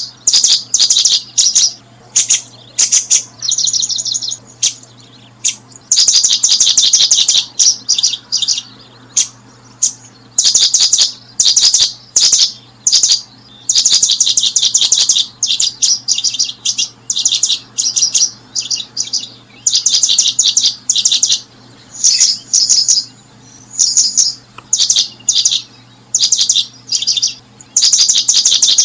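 Small bird chirping in quick bouts of rapid, high-pitched notes, repeated every second or so with short gaps.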